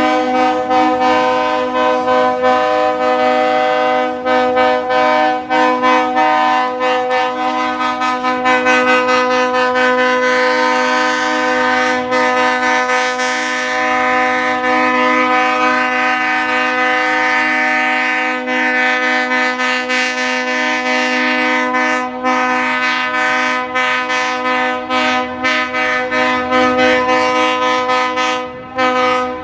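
Diesel locomotive's multi-chime air horn blowing one long, continuous chord, with brief dips near the start and near the end, over faint rail clicking.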